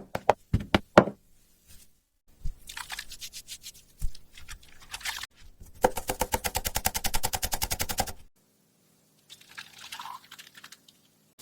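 Knife slicing raw potatoes on a cutting board: a few separate chops, then runs of quick, even strokes, the fastest near the middle, with brief pauses between.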